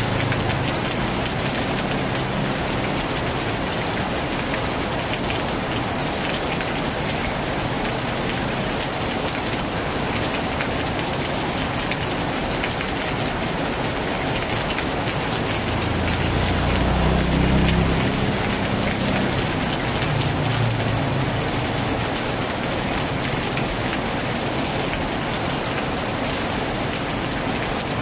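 Heavy rain pouring steadily on a tin roof, a dense, even hiss. A low rumble swells and fades about two-thirds of the way through.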